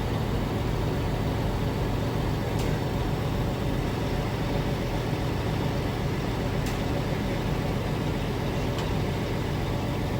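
A heavy truck engine running steadily, with a faint click or two.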